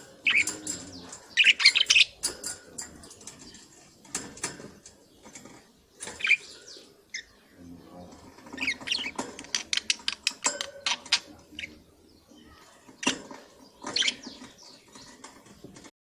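Budgerigars chirping and chattering in short irregular bursts, with runs of quick clicks.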